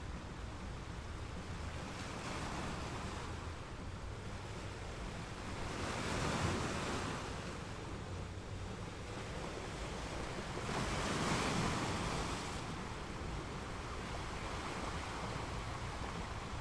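Choppy sea water washing, with wind on the microphone; the rush swells louder twice, about six and eleven seconds in.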